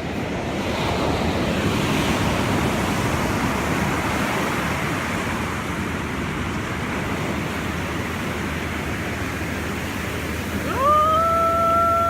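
Ocean surf washing up on the beach, swelling in the first few seconds. Near the end a loud, steady high tone slides up at its start and holds for about two seconds.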